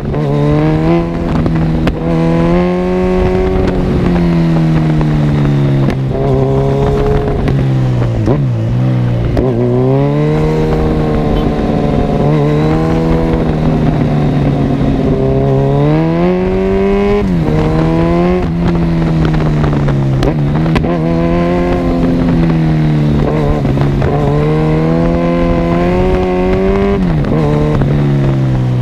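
Kawasaki Z1000 inline-four running through an Arrow full exhaust system. It revs up and drops back again and again as the bike accelerates and changes gear, with sharp falls in pitch at the shifts, twice clearly in the second half.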